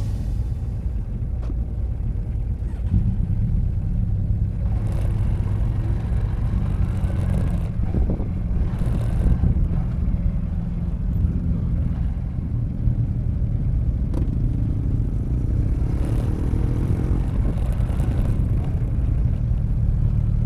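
Steady low engine rumble of a vehicle under way, with faint rushing noise that comes and goes.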